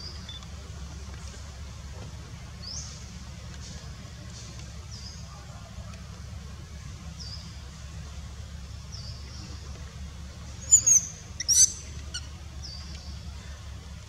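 A bird repeats a short, high chirp about once a second over a steady low background hum. Near the end, two sharper, louder shrill squeaks come close together.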